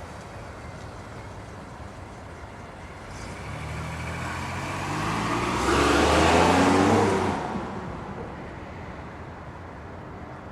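A motor vehicle driving past: its engine and tyre noise grow louder, peak about six to seven seconds in, then fade away.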